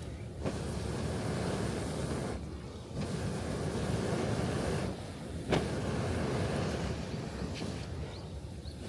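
Surf washing onto a sandy beach in swells that rise and ease every couple of seconds, with one sharp pop from a crackling wood campfire about five and a half seconds in.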